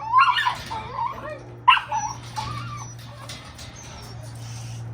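Rottweiler puppies whining and yelping in wavering, high cries, in two bouts within the first two and a half seconds, the second starting sharply. A steady low hum runs underneath.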